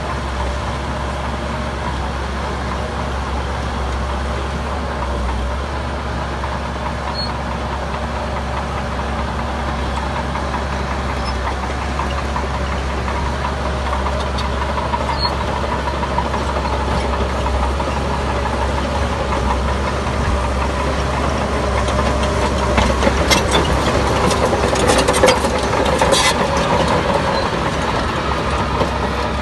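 Heavy diesel construction machinery running steadily. It grows a little louder in the last third, with a burst of clattering knocks from about 22 to 26 seconds in.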